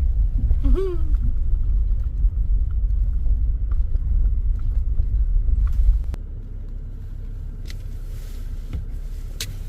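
Ford F-250 pickup heard from inside the cab while driving: a steady low rumble of engine and tyres that drops noticeably about six seconds in, with a few sharp clicks near the end.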